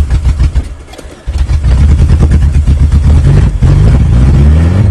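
1994 Geo Tracker's four-cylinder engine firing unevenly on a cold start, then catching about a second in and running loud, revving up near the end. The owner thinks one cylinder is half dead with bad compression.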